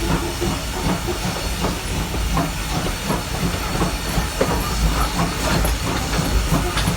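A slow-moving train: a steady hiss over a low rumble, with faint scattered clanks.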